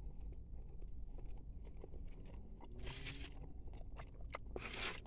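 Faint chewing of a mouthful of chicken club sandwich, with small scattered clicks and two short, louder noisy sounds, one about three seconds in and one near the end.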